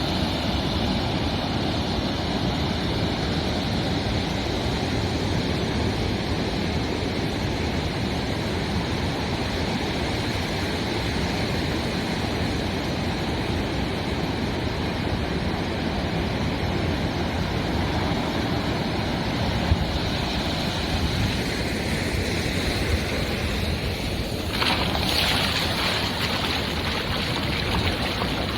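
Ocean surf on a beach: a steady rush of waves, with one wave breaking more loudly near the end.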